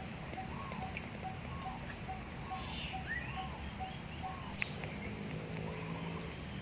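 An animal calling: a short, even note repeated about twice a second, stopping about four seconds in, with a few higher chirps over a steady background hiss.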